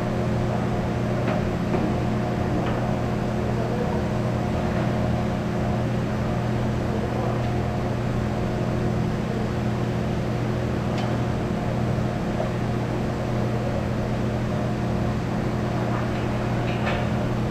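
Steady hum of running machinery, with a few faint clicks and knocks.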